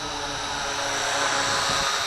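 Syma X8C quadcopter's motors and propellers buzzing with a steady whine in flight, growing louder over the first second or so.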